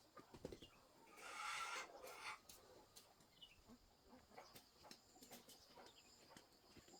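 Near silence, with scattered faint taps and a brief rustling swell about a second in.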